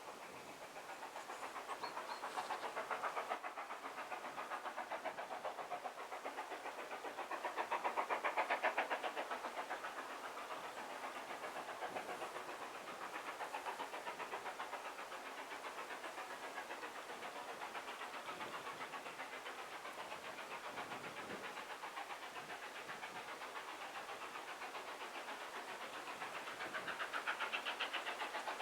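A train running on a heritage line, heard at some distance, with a fast, even pulse that swells louder and softer several times.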